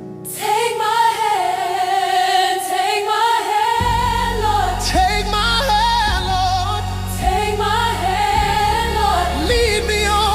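Gospel R&B song: sustained wordless choir vocals, joined about four seconds in by bass and a full band.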